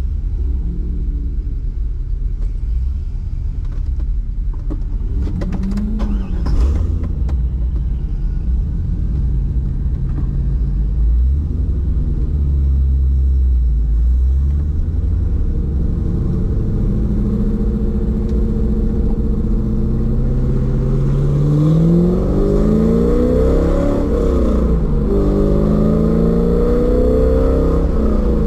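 1999 Corvette C5's LS1 V8, breathing through long-tube headers and a catless X-pipe, heard from inside the cabin. It idles and rolls slowly at first, then revs hard through the gears over the last several seconds, the pitch climbing and falling back with each shift.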